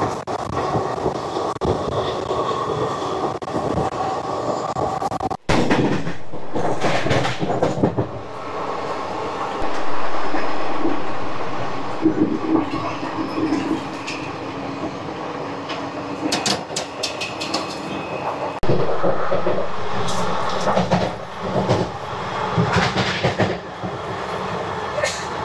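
Netaji Express passenger train running on the track, a steady rumble with the wheels clattering over the rails. The sound drops out abruptly for a moment about five seconds in, and bursts of sharp clicks come in the second half.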